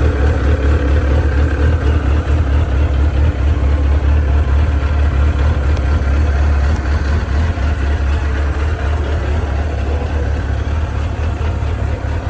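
1994 Suzuki RF900's inline-four engine idling steadily, with no revs.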